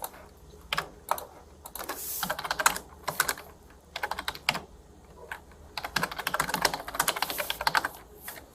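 Typing on a computer keyboard: several quick runs of keystrokes with short pauses between, the longest run in the second half.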